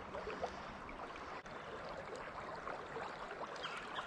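Fast river current rushing and babbling steadily.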